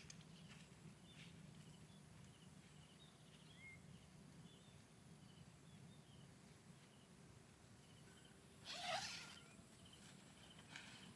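Quiet outdoor ambience: faint, short high chirps repeating every fraction of a second over a low steady hum, with one brief, louder scratchy sound about nine seconds in.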